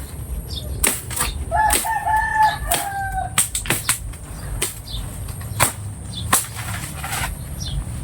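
A series of sharp swishing strikes, about a dozen spread unevenly, and a rooster crowing once from about one and a half to three seconds in.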